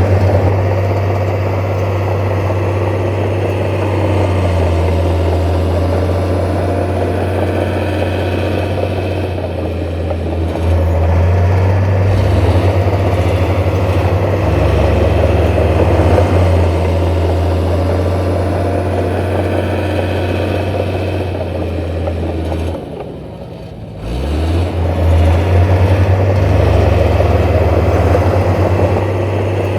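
Heavy diesel engine of earthmoving machinery running steadily with a deep drone, briefly dropping away about 23 seconds in before picking up again.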